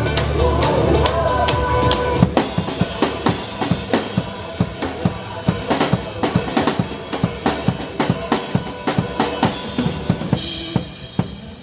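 Rock music with a drum kit up front: about two seconds in, the drums and cymbals come in hard with a fast, steady beat of kick and snare hits. The level drops off near the end.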